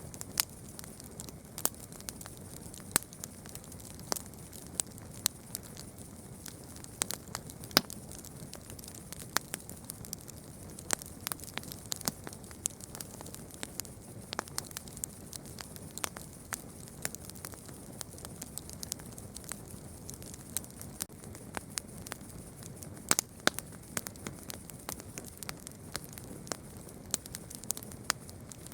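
Campfire burning, with irregular sharp crackles and pops of the wood over a soft steady hiss.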